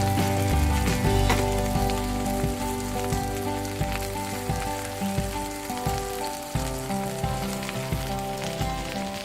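Food sizzling and crackling on a barbecue grill, with background music playing.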